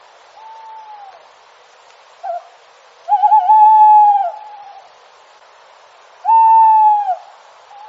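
Owl hooting: drawn-out single-pitch hoots, each about a second long and dropping at the end. Two loud hoots come a few seconds apart, the first wavering as it starts, with fainter hoots between.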